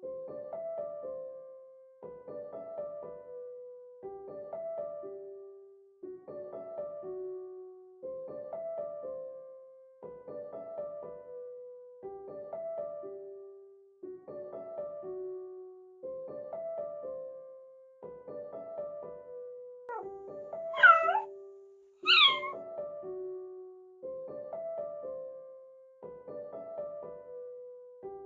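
A kitten meowing twice, two short loud calls close together about three quarters of the way through, over background piano music that repeats a short phrase every two seconds.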